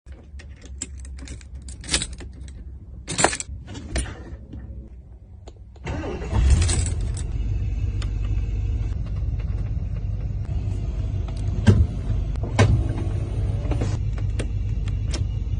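Scattered clicks and rattles, then an engine of a 1975 American car starts about six seconds in with a brief loud burst and settles into a steady idle, with a few sharp clicks over it.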